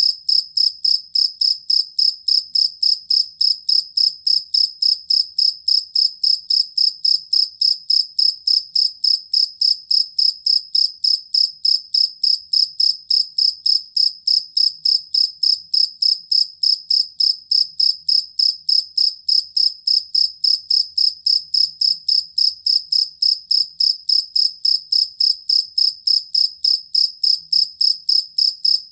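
Jangkrik kalung (two-spotted field cricket, Gryllus bimaculatus) singing: a steady, even chirp, about three a second, high-pitched and unbroken.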